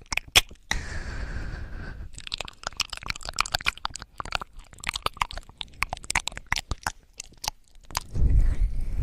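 Rapid crackling and clicking right up against the microphone, an ASMR trigger sound, sparse at first and then dense for several seconds. A louder low rumble comes near the end.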